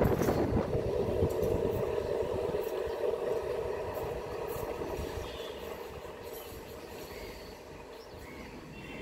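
Electric multiple-unit suburban train moving away after passing close by: its running noise and steady hum fade out gradually.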